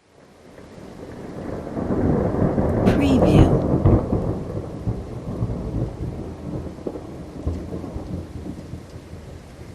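Thunder with rain: a low rumble swells out of silence to a sharp crack about three seconds in, then rolls away slowly over steady rain.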